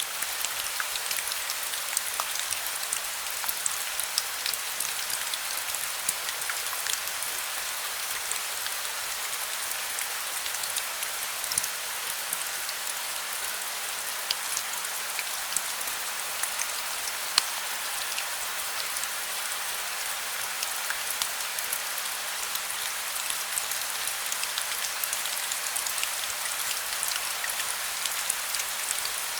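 Heavy, steady rain with many close, distinct drops ticking onto a hard surface.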